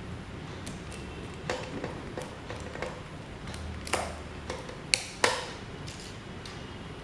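Irregular light clicks and taps of small hard parts or tools being handled, with two sharper knocks about five seconds in.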